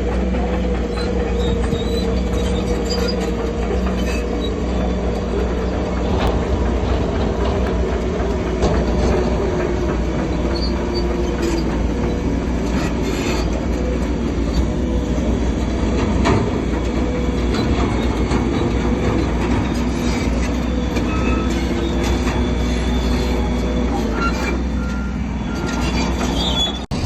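Crawler bulldozer working: its diesel engine runs steadily under a squealing, wavering metallic whine with scattered clanks from the tracks.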